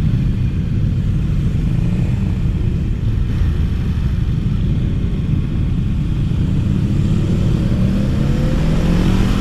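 Ducati Monster 1200R's L-twin engine running while riding at a steady pace, with its revs climbing in the last second or so as the bike accelerates.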